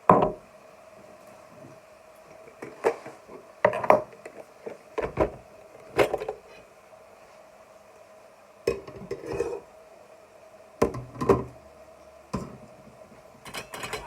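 Kitchen clatter: containers and utensils knocked and set down on a worktop, about a dozen separate clinks and knocks at irregular intervals, over a faint steady hum.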